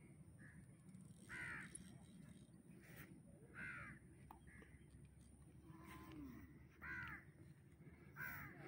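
A bird calling repeatedly with harsh caws, four loud calls a couple of seconds apart, over a faint steady background.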